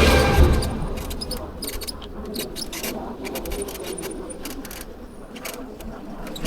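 A passing vehicle fades away in the first second. After it come scattered light metallic clicks and jingles, irregular and not in a steady rhythm.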